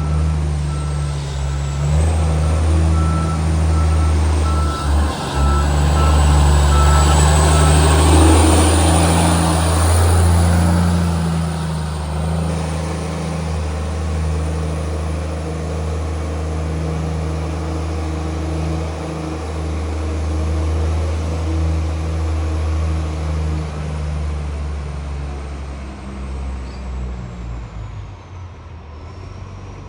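Garbage truck's diesel engine running very loud through a leaking exhaust pipe, swelling to its loudest about a third of the way through, then easing off and getting fainter near the end. A reversing beeper pulses for the first several seconds.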